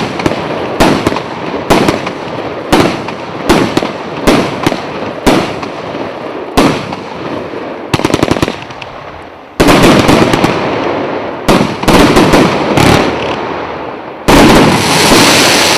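A 74-shot combination firework cake (1"–1.2" tubes) firing. Single shots bang about once a second at first, then a rapid volley of shots comes about eight seconds in. Heavier, denser bursts follow, and a long, loud, sustained burst starts near the end.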